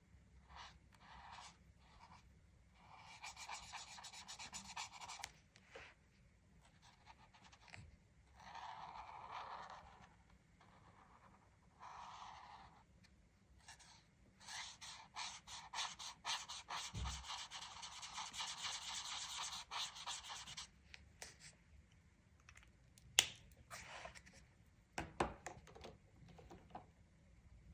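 Colouring strokes on a colouring-book page: quiet scratchy shading in stretches of one to six seconds, the longest about halfway through, with short single strokes between and a couple of sharp taps near the end.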